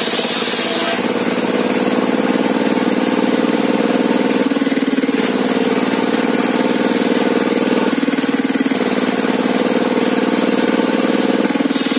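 An engine running steadily at an even pitch, with its tone shifting briefly about four and a half and eight seconds in. A high hiss lies over it in the first second and comes back near the end.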